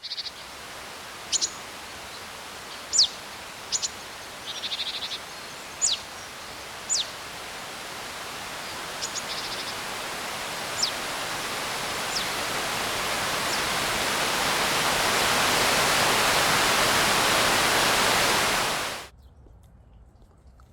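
Outdoor ambience of songbirds calling over a steady rushing hiss like moving water or wind. The birds give short, sharp falling whistles and a few quick trills. The hiss grows slowly louder, then cuts off suddenly near the end.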